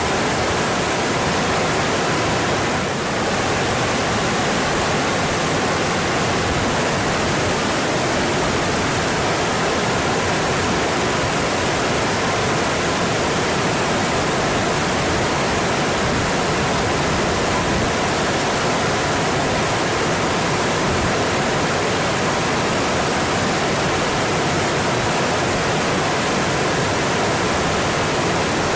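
Mountain stream flowing, a steady, even rush of water that dips briefly about three seconds in.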